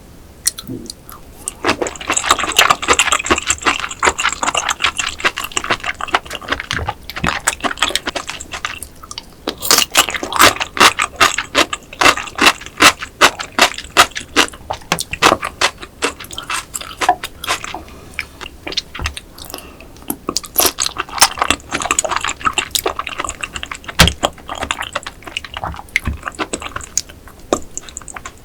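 Close-miked wet chewing of raw rock oyster: rapid sticky clicks and squelching mouth sounds, thickest about a third of the way in.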